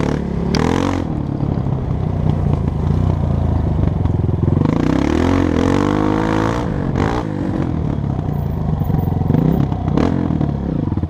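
Honda CRF230 dirt bike's single-cylinder four-stroke engine running under way, its pitch rising and falling as the throttle is worked, with a few knocks and rattles.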